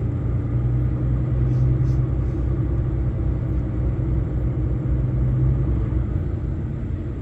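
Truck's diesel engine running, heard from inside the cab as a steady low rumble with a low hum that fades out about five and a half seconds in.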